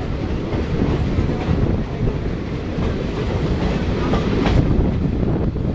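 Passenger train running along the track, heard from the side of the coach: a steady rumble of wheels on the rails with occasional clicks.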